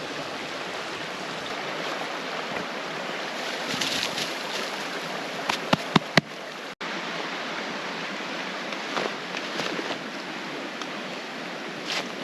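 Small mountain creek running over rocks, a steady rushing of water, with a few sharp clicks a little before halfway.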